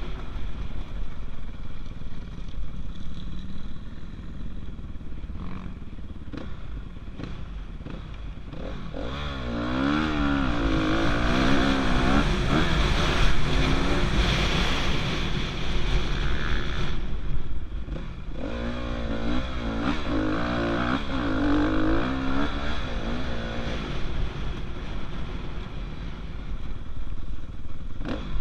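Dirt bike engine revving up and down as it is ridden, over a constant low rumble. The engine grows loud about a third of the way in, drops off briefly past the middle, then rises again before easing near the end.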